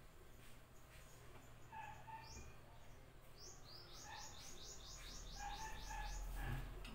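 A small bird chirping faintly: one short rising note, then about a second later a quick run of a dozen or so short rising notes at about four a second.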